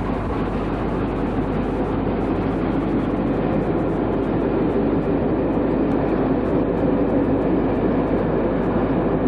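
A railway locomotive running: a steady rumble that slowly grows louder.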